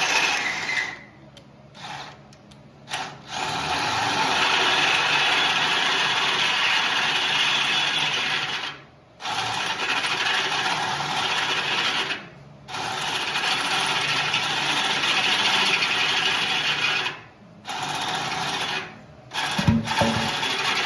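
Electric drill boring into steel in a series of runs of a few seconds each, stopping and starting several times. A knock comes near the end.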